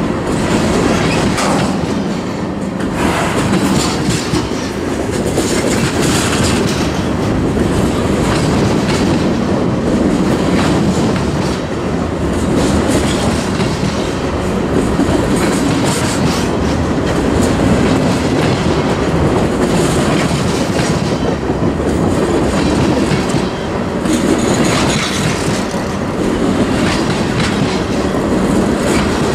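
Railcars rolling past at close range, a steady rumble of wheels on rail with irregular clacks as the wheels cross rail joints.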